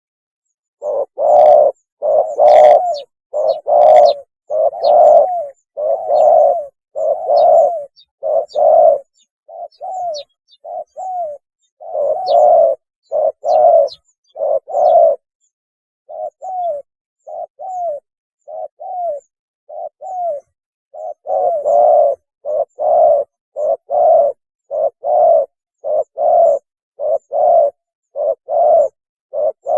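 Spotted dove cooing: a long run of short, deep coos in quick repeated phrases, with a brief pause about halfway.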